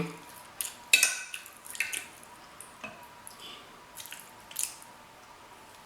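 Close-miked wet chewing and lip smacks while eating a seafood boil: a few sharp, moist clicks, the strongest about one, two and four and a half seconds in.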